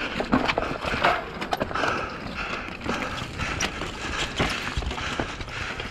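Downhill mountain bike clattering over a rocky trail at speed: a dense, irregular run of knocks and rattles from the tyres, frame and drivetrain hitting rocks, over a steady rushing noise.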